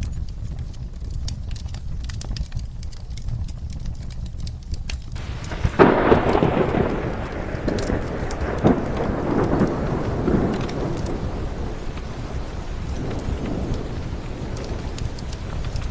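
Steady rain with the sharp crackle of a wood fire. About six seconds in, a thunderclap breaks and rumbles away over several seconds, with a fainter roll of thunder near the end.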